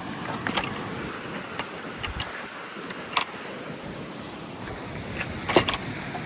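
Wind buffeting the microphone in a steady low rumble, with a handful of scattered sharp clicks and knocks, the loudest about five and a half seconds in.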